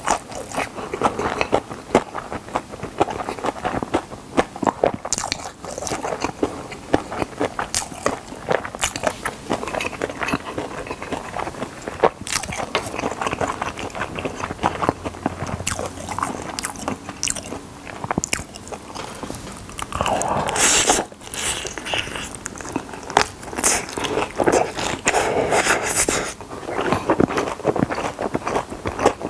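Close-miked biting and chewing of crispy fried chicken drumsticks: dense, sharp crunches of the coating mixed with wet chewing, going on without pause.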